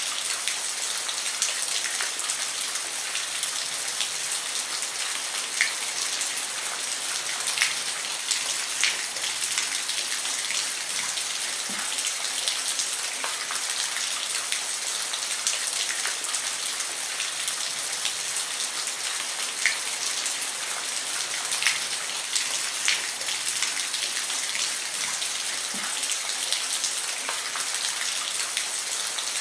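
Steady rain falling on a roof, a continuous hiss with scattered sharper drop impacts.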